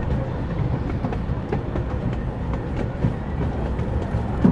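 A miniature steam railway's cars rolling along the track: a steady low rumble of wheels with scattered clicks over the rail joints, and one sharper knock near the end.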